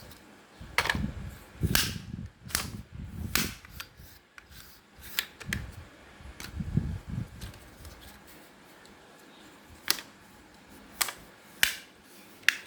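Hard plastic casing of an old toy or mini fan being broken and pried open: an uneven series of sharp cracks and snaps, with dull handling thuds in between.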